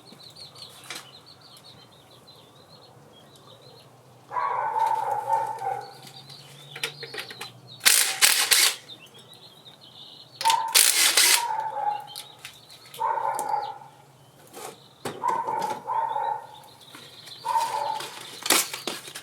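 A dog whining in a run of cries about a second long each, every one falling slightly in pitch. A few short, loud, noisy bursts come in between, the loudest about eight seconds in.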